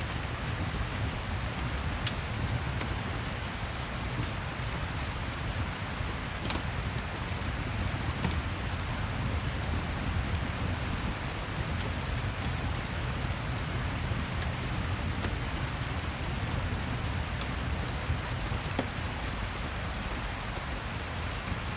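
Steady rain falling on a surface, with a low rumble and scattered small crackles from a fireplace.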